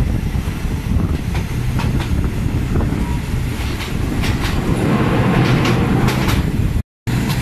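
Passenger train running along the track, heard from aboard by an open window: a steady rumble with scattered sharp clicks of the wheels over the rails. The sound cuts out abruptly near the end.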